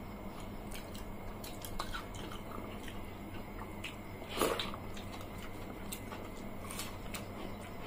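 Close-miked eating sounds: chewing, lip smacks and small wet clicks of mouths and fingers on watered rice and fried fish, with one louder mouthful about four and a half seconds in.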